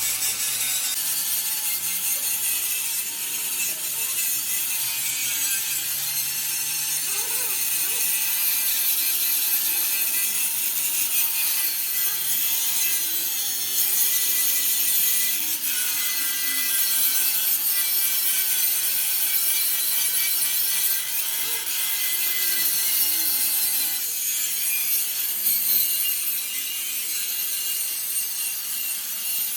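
A power tool working metal without pause: a steady hiss with a faint whine that wavers up and down.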